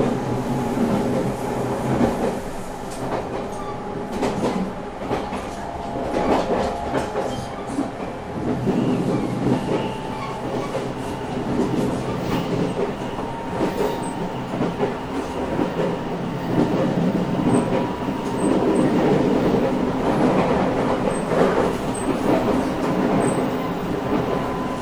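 JR Shikoku 8000 series electric limited-express train running at speed, with a steady rumble of wheels on rail, scattered clicks of rail joints and a faint steady whine.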